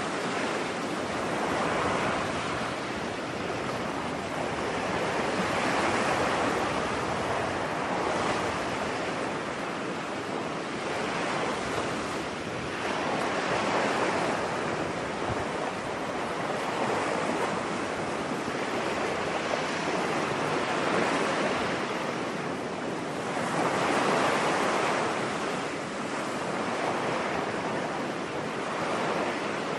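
Ocean waves breaking and washing on a beach, a steady surf hiss that swells and falls every few seconds.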